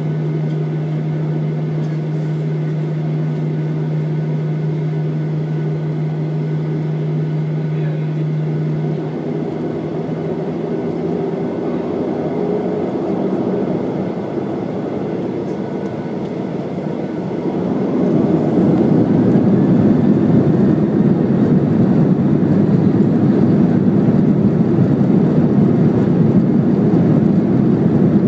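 Boeing 737 jet engines heard from inside the cabin: a steady hum with a low tone that fades away, then about two-thirds of the way through a rising whine as the engines spool up and the noise swells and stays loud, the engines going to takeoff thrust.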